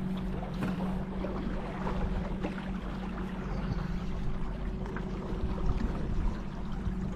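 Small boat under way on the river: a steady low motor hum over the wash of water and wind noise on the microphone.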